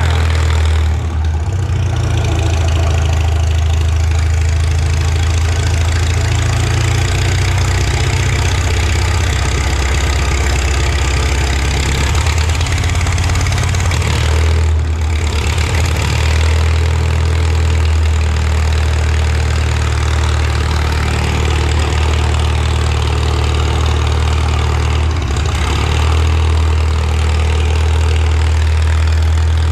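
Farmall Super M tractor's four-cylinder engine, just started, running steadily at idle, with a few brief changes in its note about a second in, midway and near the end.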